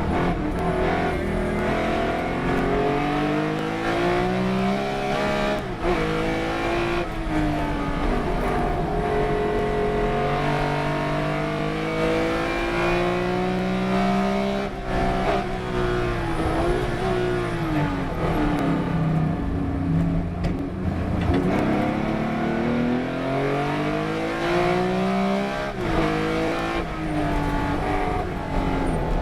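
Race car engine running hard at full throttle, its pitch climbing through each gear and dropping sharply at every change, with several long rises and falls as the car accelerates and slows for corners.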